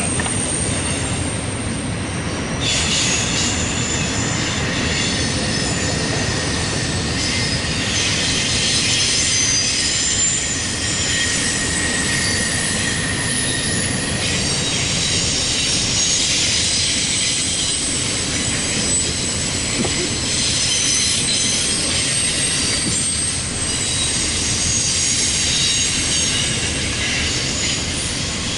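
Intermodal freight train of container cars rolling steadily around a curve, the low rumble of the cars overlaid by high, shifting wheel squeal.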